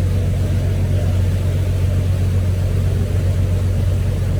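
Motorboat engines running under way, a steady low drone that holds level.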